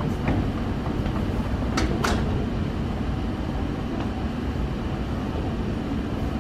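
Strong wind buffeting the microphone in a steady low rumble, with two sharp clicks about two seconds in.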